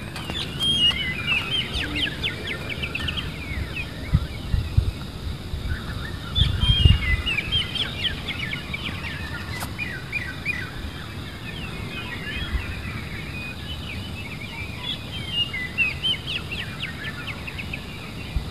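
Small birds chirping and twittering: many short, quick calls overlapping throughout. A few low thumps come about four and seven seconds in.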